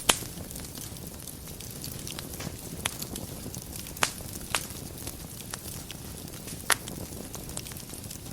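Wood fire burning in a fireplace: a steady low rumble of flames with scattered sharp crackles and pops, the loudest just at the start and at about four and a half and seven seconds in.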